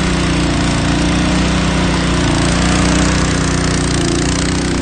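Engine running steadily at constant speed, with a steady hiss over it.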